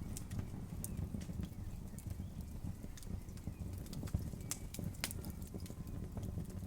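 Campfire crackling, with irregular sharp pops and snaps (a few louder ones past the middle), over the steady low rush of a river.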